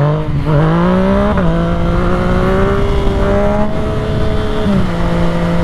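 Yamaha motorcycle engine under way. It climbs in pitch for about a second, then drops sharply as at an upshift, holds a steady note, and drops again near the end.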